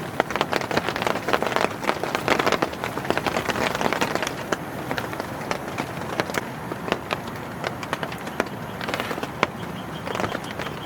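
Heavy rain falling on a tent: a steady hiss dotted with many sharp drop impacts.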